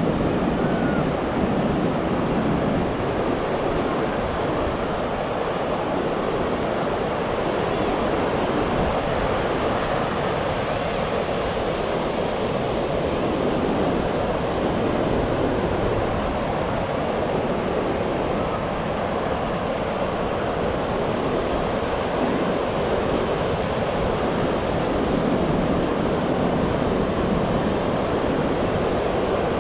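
Ocean surf washing onto a sandy beach: a steady, unbroken wash of waves.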